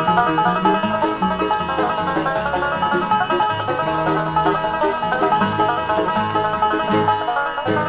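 Bluegrass band instrumental with a five-string banjo playing a fast lead of rapid plucked notes, backed by guitar, mandolin and a walking bass line.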